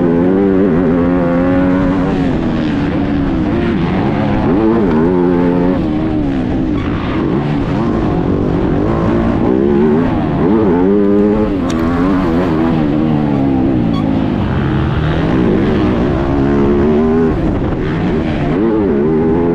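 MX2 motocross bike engine under hard riding, the revs rising and falling over and over as the throttle is opened and shut through the track's corners and jumps, over a constant noise of tyres and wind.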